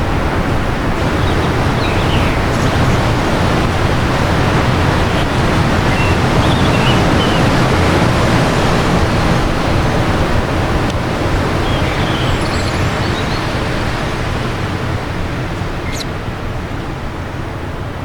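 Strong wind blowing in gusts, swelling then easing off, with faint short birdsong chirps heard a few times through the rush.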